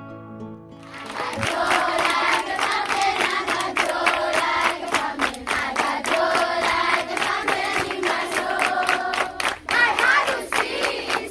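Quiet acoustic guitar music ends about a second in. A group of voices then sings together loudly over rhythmic hand clapping and crowd noise.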